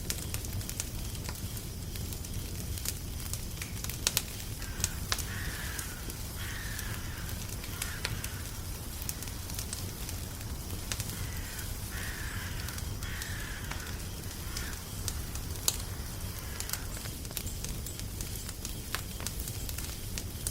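Crackling fire, with frequent sharp pops and snaps over a steady low rumble. Short bird calls come in two spells, about five seconds in and again around twelve seconds.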